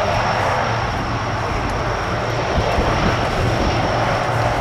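A Boeing KC-135R's four CFM56 (F108) turbofan engines run steadily as the tanker flies overhead, a loud, even jet noise with a low rumble and a thin high whine.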